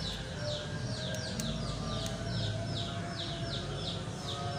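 A bird chirping: a steady run of short, high, falling chirps, about four a second.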